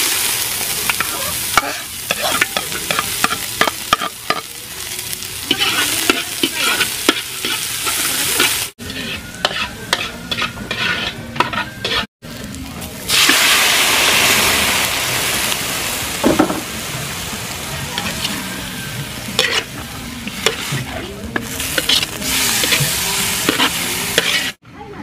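Sliced onion and ginger sizzling in hot oil in a large wok, stirred with a metal spatula that scrapes and clicks against the pan. About 13 seconds in the sizzle becomes suddenly louder and fuller, with raw chicken pieces now frying in the wok.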